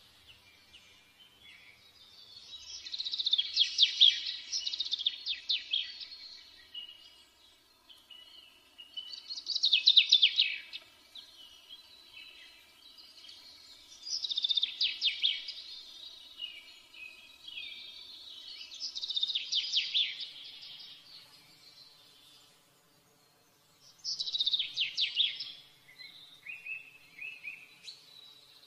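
A songbird singing in phrases of rapid chirps and trills, one every four or five seconds, with short quiet gaps between.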